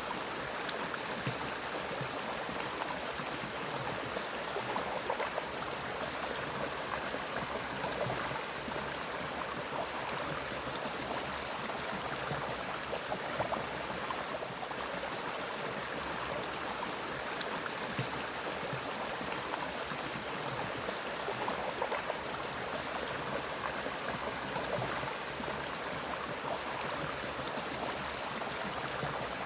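Mountain stream flowing steadily, an even rushing and gurgling of water, with a constant thin high-pitched tone running under it.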